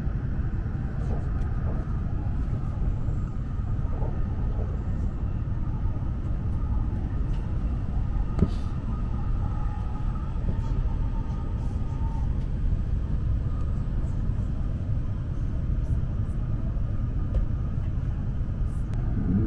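Steady running noise inside the passenger cabin of an E7 series Shinkansen: a low, even rumble from the running train, with a faint steady high whine. There is a single click about eight seconds in.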